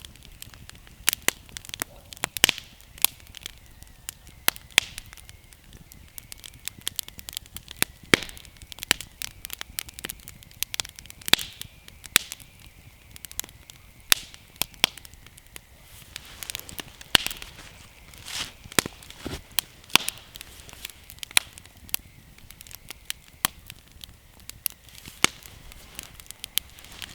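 Wood campfire burning, with many irregular sharp crackles and pops from the dry kindling, some louder snaps standing out.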